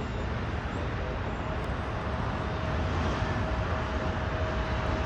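Jet airliner engines running, a steady broad rumble and hiss with a thin steady whine held over it, growing slightly louder about halfway through.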